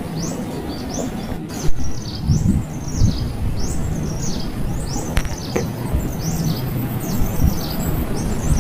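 Small birds chirping: many rapid, high, pitch-sliding chirps repeating without pause, over a low background rumble, with a couple of short knocks about two seconds in.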